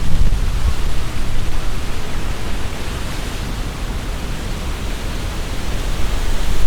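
Strong gusty wind rustling the leaves of the trees overhead, with wind buffeting the microphone as a low rumble. The gusts are stronger near the start and again near the end, easing in between.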